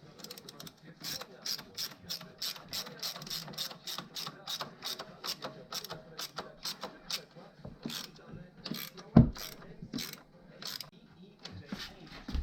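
Ratchet wrench clicking in quick, even strokes, about five clicks a second, then slowing to scattered clicks, with one heavy knock about nine seconds in.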